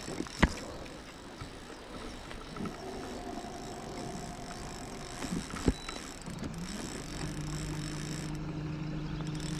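Steady rain falling on the river water, with two sharp knocks. About six seconds in, a motor hum comes in, rising in pitch and then holding steady.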